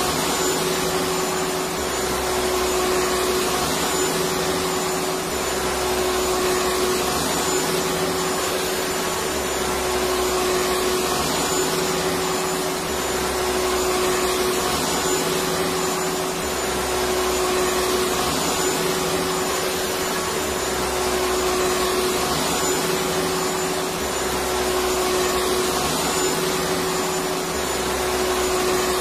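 Electric vacuum cleaner running steadily: a dense rushing noise with a steady hum-like whine, and a low rumble that swells and fades about every two seconds.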